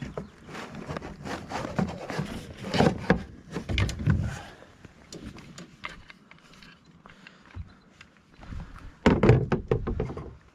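Irregular knocks, thumps and clatter of fishing gear being handled on a plastic kayak, the heaviest cluster of knocks about nine seconds in.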